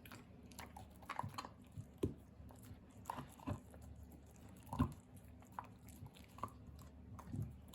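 Kai Ken dog chewing raw bear bones: irregular crunches and cracks of bone between the teeth, the loudest crunch about five seconds in.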